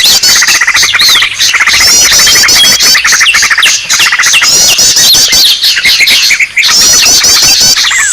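A dense, loud mix of many small songbirds calling at once, as in a bird-trapping lure recording: fast trills, rapid runs of high chips and short falling whistles overlap without a break.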